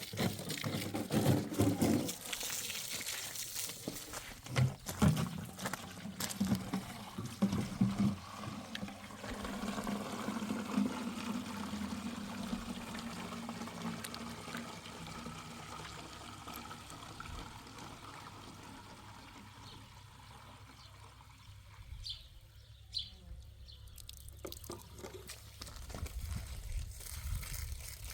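Water pouring and trickling, after a run of knocks and clatter in the first several seconds.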